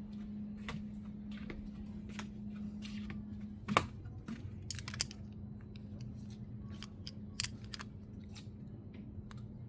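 A string of irregular sharp clicks and ticks, one much louder knock about four seconds in, over a steady low hum that weakens after the knock.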